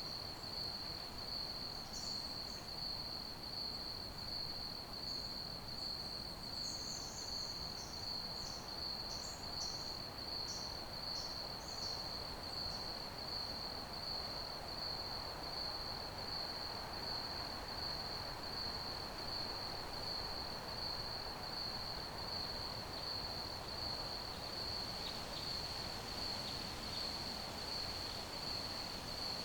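Crickets chirping in a continuous, rapidly pulsing high trill over a soft background hiss. A few brief, higher chirps come and go in the first half.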